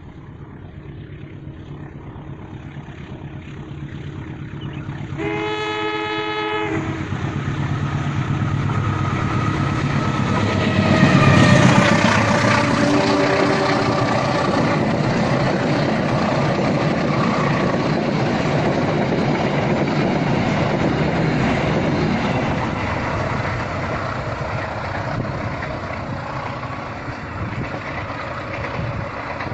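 Train approaching and passing: a horn blast of about a second and a half around five seconds in, then the rumble and clatter of the train building to its loudest around twelve seconds, with a short second horn note just after, and the wagons rolling by steadily.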